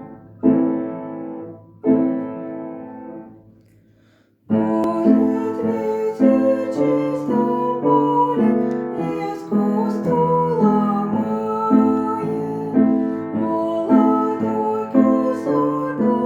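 Piano playing the opening of a romance. A few struck chords die away, there is a short pause, and then the piano settles from about four and a half seconds in into a steady run of repeated chords.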